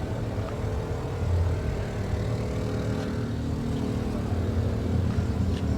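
A vehicle engine running, a steady low drone with a rumble that swells and fades.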